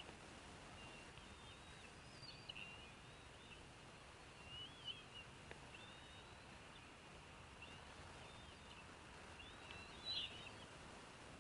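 Faint bird chirps, short and scattered, over a steady hiss, with a brief louder cluster of chirps about ten seconds in.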